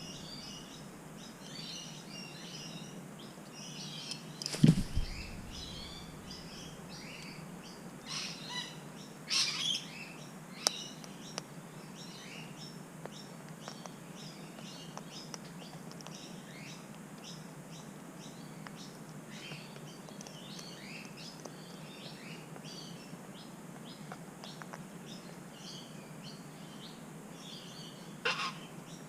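Birds chirping and twittering throughout, with a few short, harsher calls around ten seconds in and again near the end. A single loud thump comes about five seconds in.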